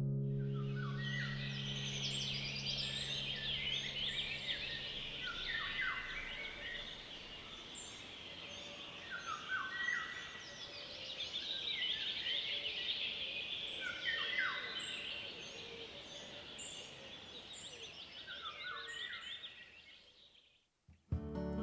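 Several birds chirping and singing together, with a falling call that repeats every few seconds. The sound fades in at the start and fades out near the end.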